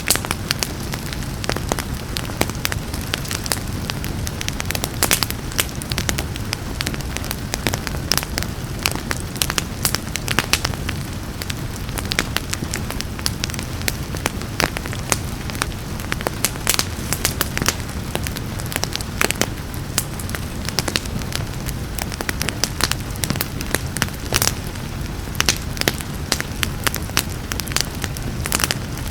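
Wood fire crackling with frequent sharp, irregular pops over a steady low rumble, mixed with a steady hiss of rain.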